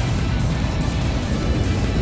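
Background music over the steady low rumble of a Tohoku Shinkansen train running at speed, heard from inside the train.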